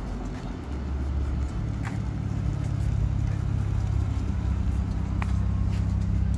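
Dodge Challenger's engine and exhaust running as the car creeps slowly along: a low, steady drone that grows louder about a second in and then holds.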